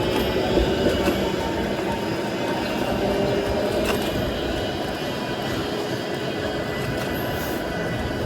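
Steady city traffic noise, vehicles running along a street, with a few light clicks.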